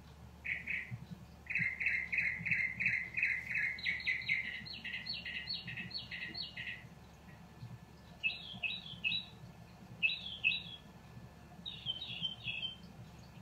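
A small bird chirping: a quick run of short, even chirps that climbs higher about four seconds in, then three short clusters of two or three notes each.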